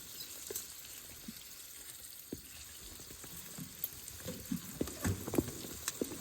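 A river flowing steadily, with Canada geese honking repeatedly, mostly in the second half.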